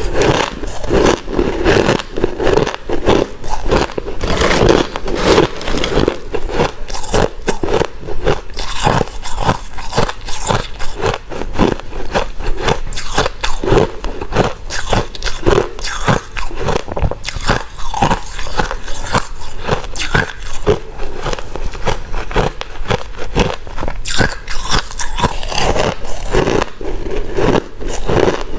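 A person biting and chewing white crunchy ice, a dense, continuous run of crunches with no pauses.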